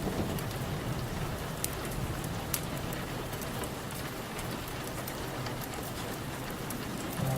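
Steady rain falling on a surface, a continuous hiss with scattered sharp drop ticks.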